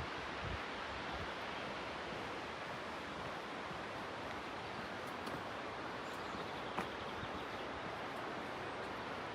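Steady rush of falling or flowing water, even and unbroken, with a single sharp tick about seven seconds in.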